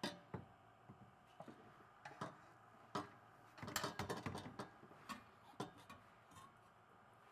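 Scattered sharp clicks and knocks, with a quick run of them about four seconds in.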